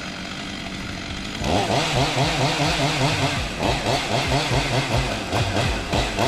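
Chainsaw running at a steady low idle, then from about a second and a half in revved hard and held there, its pitch rising and falling repeatedly as it works.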